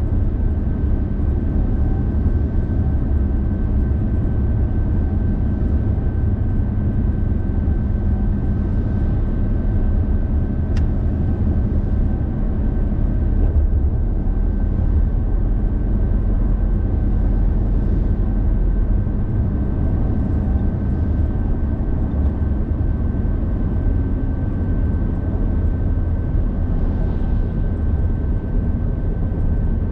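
A car driving, heard from inside: a steady, deep rumble of tyres and engine with a faint, constant high-pitched whine.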